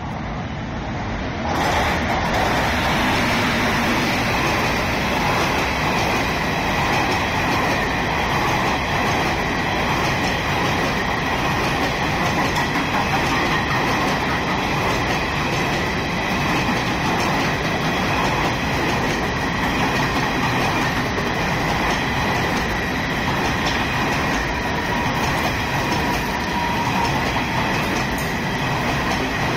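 Express train passing at speed, hauled by a WAP-7 electric locomotive: the noise jumps up sharply about a second and a half in as the locomotive goes by. Then comes a long, steady rush of coaches and wheels on rail, with a steady high-pitched ring over it.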